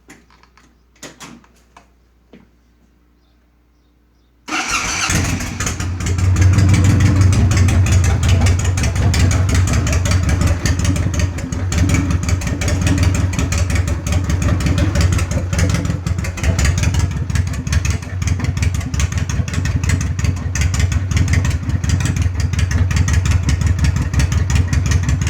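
A few faint clicks, then about four and a half seconds in a 2007 Honda VTX 1800N's dual-pin-crank V-twin engine starts and settles into a loud idle through Xroids exhaust pipes, with a deep chug.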